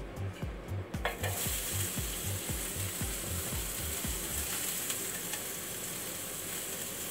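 Strips of red chilli dropped into a hot frying pan, sizzling. The sizzle starts suddenly about a second in and goes on steadily.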